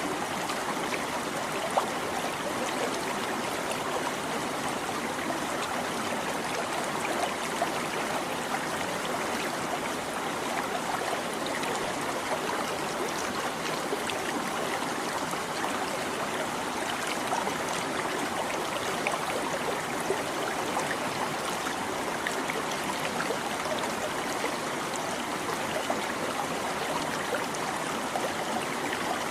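Small stream running over stones, a steady babbling and trickling of water with tiny splashes scattered through it.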